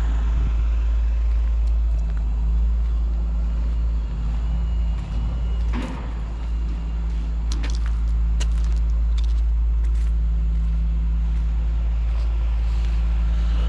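A motor vehicle's engine running steadily with a low rumble, with a few light clicks about six to nine seconds in.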